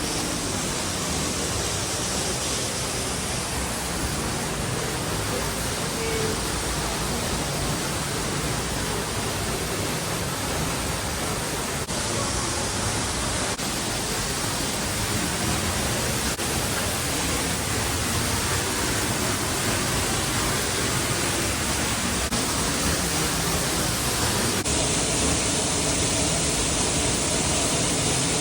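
Steady rushing of a waterfall, an even wash of falling water with no pauses, a little louder near the end.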